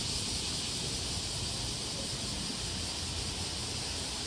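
Steady city-street ambience: a low traffic rumble under a constant high hiss, with no distinct events.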